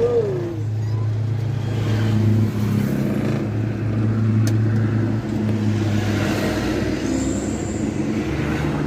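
Truck engine running steadily with an even low hum, a sharp click about halfway through and a brief high tone near the end.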